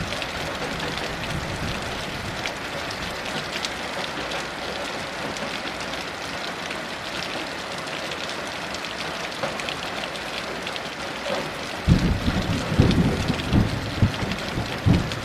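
Heavy rain falling steadily, with scattered drops ticking on nearby surfaces. About twelve seconds in, low rumbling thunder rolls in with several sharp cracks and continues to the end.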